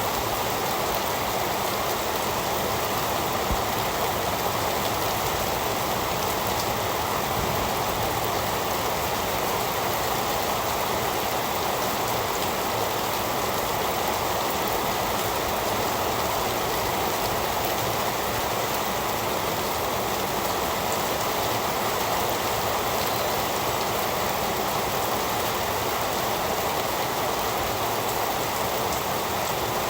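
Heavy rain falling steadily, an even hiss of rain on surfaces with no thunder.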